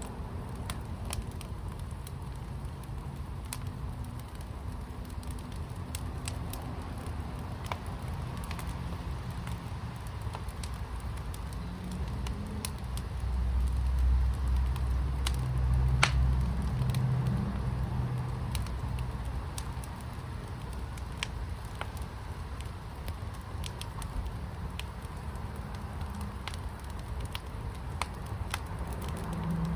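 Wood fire in a fire pit crackling, with sharp pops scattered throughout. A low rumble swells and fades in the middle.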